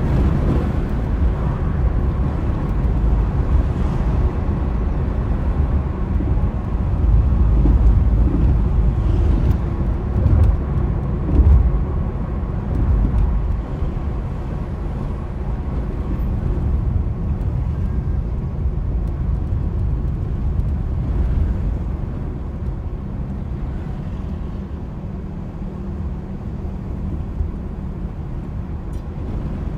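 Car driving in high winds: steady road and engine noise under a heavy low rumble that rises and falls, strongest in the first half and easing later.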